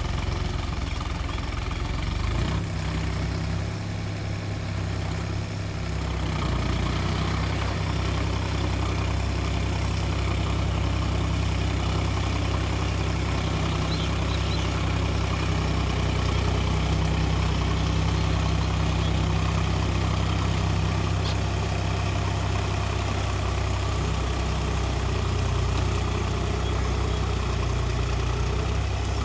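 Tractor's diesel engine running steadily while puddling a flooded paddy field, with a low, even hum.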